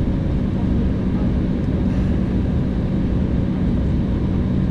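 Steady cabin drone of an Embraer 190 airliner heard from inside the cabin: its GE CF34-10E turbofans and the airflow give an even, unchanging roar with a steady low hum through it.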